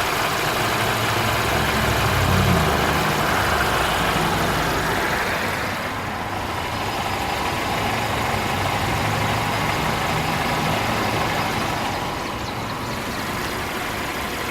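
Infiniti Q50 2.0t's turbocharged 2.0-litre four-cylinder engine running, its revs rising briefly about two and a half seconds in and then settling back; this is the engine noise that is still present after a repair.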